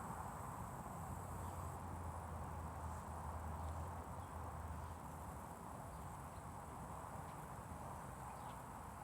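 Steady outdoor background noise with a low hum and a few faint short chirps or ticks.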